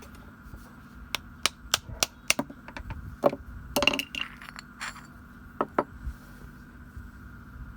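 Small metal parts and tools clinking and tapping as they are handled and set down: about a dozen sharp, separate clicks, with a busier cluster a few seconds in, over a faint steady hum.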